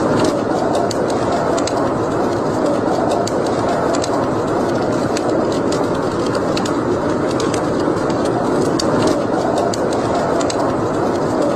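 Wood fire burning in a fireplace: a steady rushing flame sound with frequent, irregular sharp crackles and pops.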